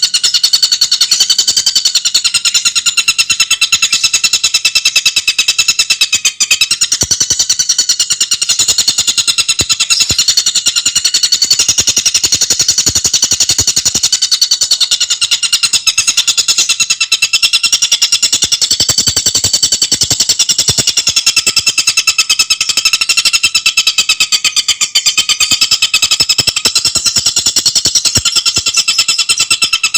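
Tengkek buto bird singing a continuous, very rapid trill of high-pitched notes, tightly packed and unbroken, its pitch wavering slightly.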